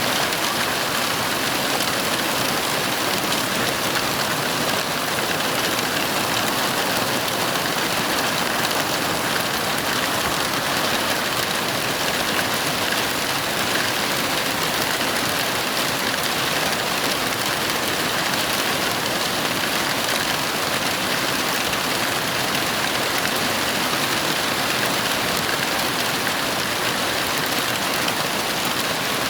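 Heavy rain falling in a steady, dense hiss with no thunder.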